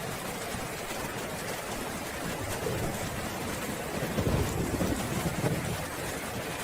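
Steady heavy rain with a low roll of thunder rumbling about four seconds in and fading out over the next two seconds.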